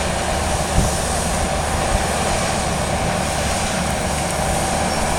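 Steady engine drone with a constant mid-pitched hum over a broad rushing noise, unchanging throughout.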